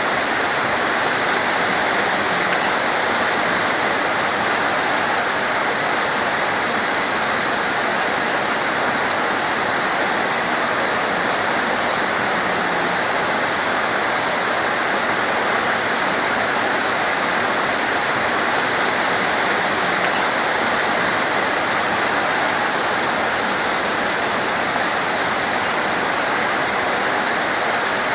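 Heavy rain pouring down steadily, an even hiss with no let-up, and a single faint click about nine seconds in.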